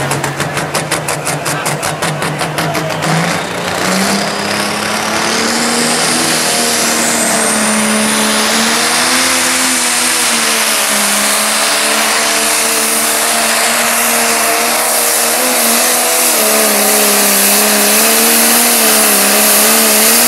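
Pulling tractor's turbocharged engine revving up: a lumpy, pulsing run for about three seconds, then a high turbo whine climbs in pitch over the next few seconds as the engine goes up to high revs and holds there, loud and steady.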